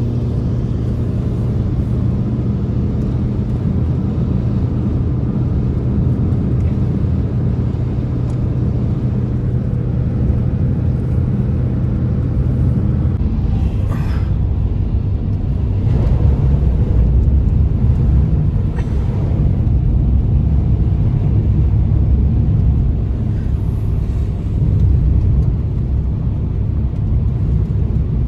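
Blizzard wind blowing hard: a loud, steady low rumble that swells in gusts, about halfway through and again near the end.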